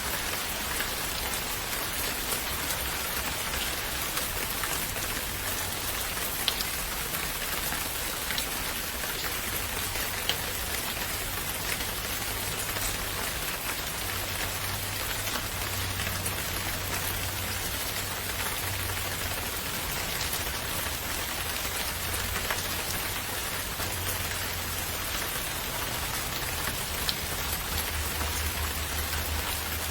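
Steady rain, a dense even hiss with a few sharper drop hits here and there and a faint low rumble underneath.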